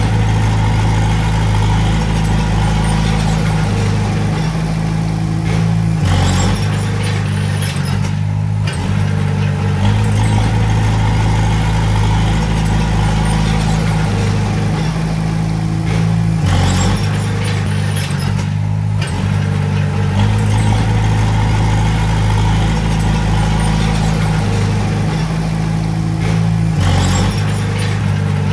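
Diesel engine of a Komatsu D20A crawler bulldozer running steadily while working, its engine speed stepping up and down a few times.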